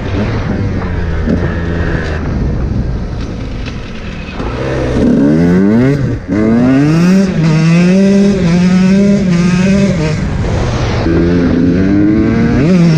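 KTM 125 motorcycle engine accelerating hard at full throttle. The pitch climbs, breaks briefly about six seconds in at a gear change, climbs and holds high, eases off about ten seconds in, then rises again near the end.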